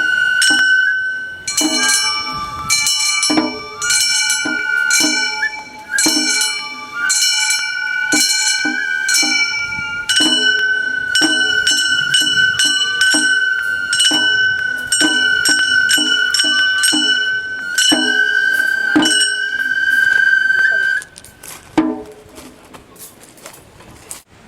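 Gion-bayashi festival music: a bamboo transverse flute holding long notes over steady strikes of small bronze hand gongs (kane), about two a second. The playing stops about 21 seconds in.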